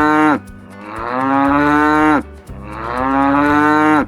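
Cow mooing: the end of one long moo, then two more, each swelling in loudness and cutting off sharply.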